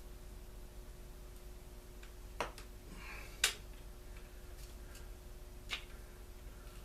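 A few sharp clicks and taps of small parts and tools being handled during the teardown of a Stihl BG 56 C leaf blower. The loudest comes about halfway through, with two lighter ones on either side.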